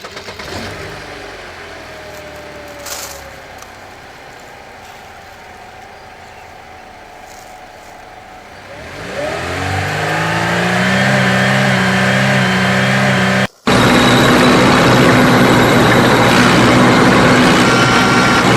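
Motor vehicle engine sound, quiet at first, that revs up with a rising pitch about nine seconds in and settles into a steady drone; after a brief cut-out it comes back louder.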